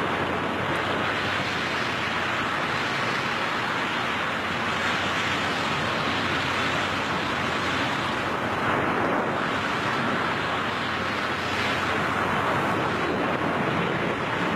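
Steady rush of wind from skydivers in freefall, heard as wind noise on the microphone, with slight swells in strength.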